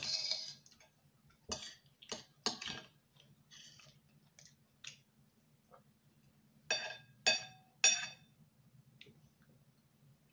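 Close-up chewing and eating sounds: a run of short, crisp, moist mouth sounds. About seven seconds in come three sharper, ringing clinks, like a utensil against a bowl.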